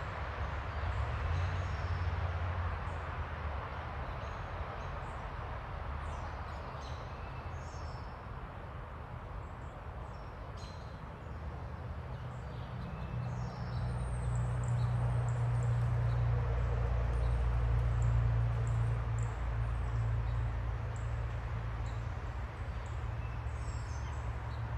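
Small backyard birds giving short, scattered chirps over a steady low rumble, which grows louder from about halfway through.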